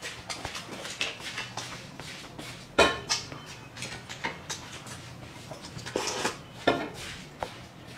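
Tableware being handled at a meal: a run of light clinks and knocks of dishes and utensils, with two sharper knocks, one about three seconds in and one near the end.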